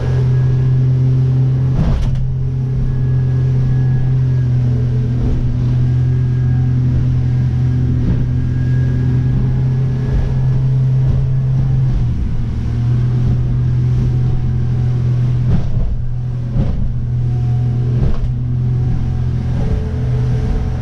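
Jeanneau Merry Fisher motorboat's engine running steadily under way, a loud even drone, with a few short thumps about two seconds in and again near the end.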